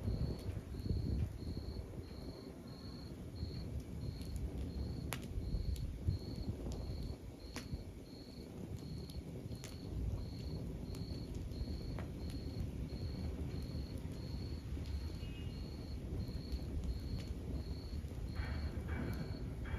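Log fire burning with a low rumble and a few sharp crackles and pops. Over it, a steady high chirping repeats about one and a half times a second.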